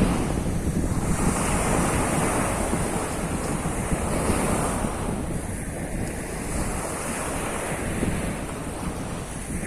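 Surf of the Sea of Azov washing onto the shore in slow swells, with wind rumbling on the microphone.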